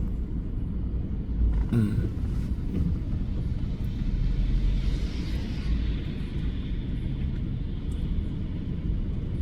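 Car driving on a wet road, heard from inside the cabin: a steady low road rumble, with a swell of tyre hiss about halfway through.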